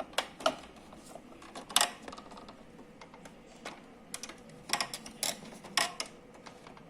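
Irregular plastic clicks and knocks from handling a power cord and pushing its plug into a wall socket.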